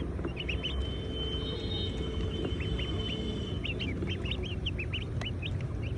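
Baby poultry peeping: many short, high peeps repeated rapidly, over a steady low rumble.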